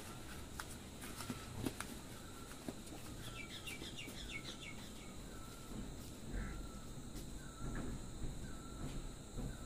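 Birds calling in the background: a short call repeated about every second, and a quick run of falling chirps about three seconds in. A few faint clicks come in the first couple of seconds.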